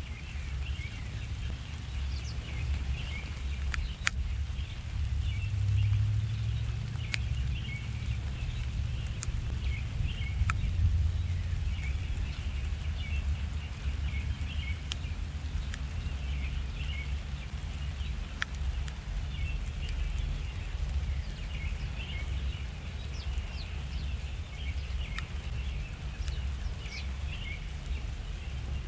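Small backyard birds chirping and twittering throughout, with now and then a sharp, thin high note, over a steady low rumble.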